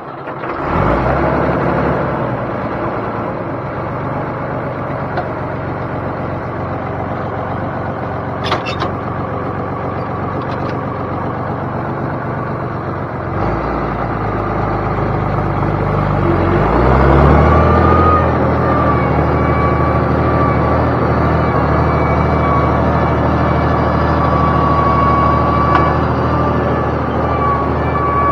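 Diesel engine working hard, pulling away with a load of round hay bales. About two-thirds of the way through the engine note dips and climbs again, and a steady whine then runs along with it.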